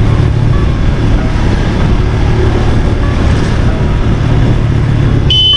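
Motorcycle riding on the road: engine sound under heavy wind buffeting on the microphone, a dense, steady rumble. A short, high tone sounds near the end.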